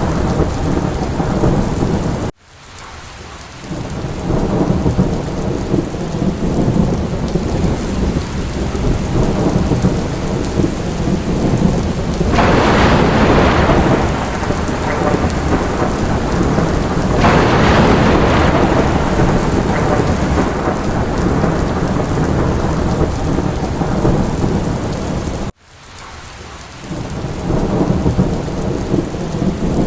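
Steady heavy rain with a low rolling thunder rumble underneath, swelling louder twice in the middle. The sound cuts out abruptly about two seconds in and again near the end, then fades back up.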